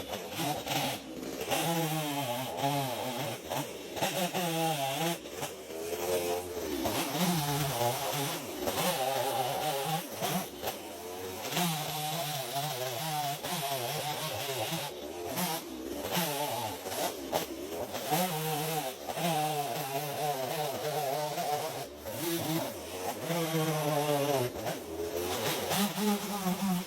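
Chainsaw engine running under load, its pitch repeatedly rising and falling as it revs and bogs down in the wood, with several abrupt breaks in the sound.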